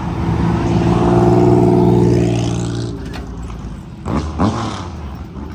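A car's engine accelerating away, loud at first and fading as it pulls off. About four seconds in, a short, quickly rising rev.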